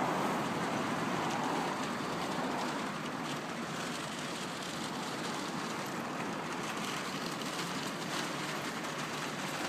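Steady road-traffic noise, a little louder over the first two seconds, then holding level.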